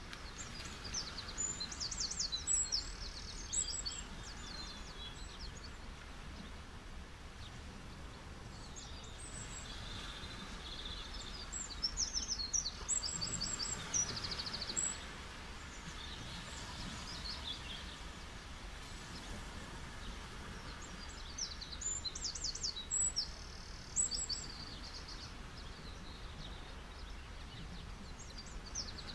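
A songbird singing bursts of quick high trills and chirps, three phrases about ten seconds apart, over a steady wash of sea waves.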